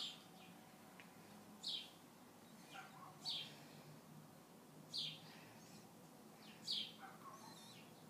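A small bird calling from close by: short, sharp chirps that slide downward in pitch, repeated five times about every one and a half to two seconds.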